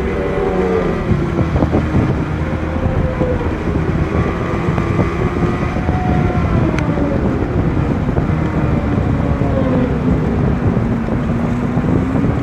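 Racing motorcycle engine running hard, its note sliding down over several seconds and rising again near the end, with wind noise over it.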